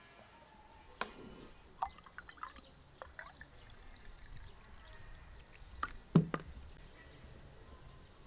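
Water poured and dripping in short splashes, with a few small knocks; the loudest knock comes about six seconds in.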